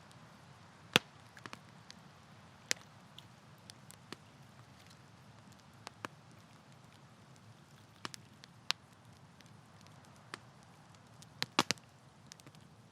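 Campfire wood burning with scattered sharp crackles and pops over a low steady hiss; one loud pop about a second in and a quick run of three near the end.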